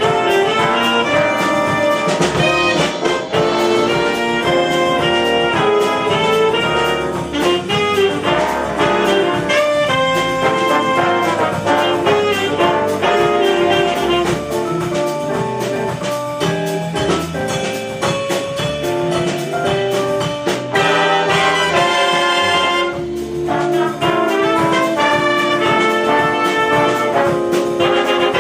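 Jazz big band playing live, with trumpets, trombones and saxophones in ensemble over a rhythm section.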